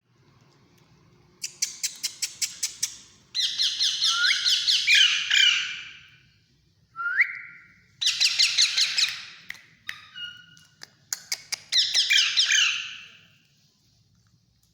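Alexandrine parakeet chicks begging, in four bursts of rapid, harsh squawks of a few seconds each, with one short rising call about seven seconds in.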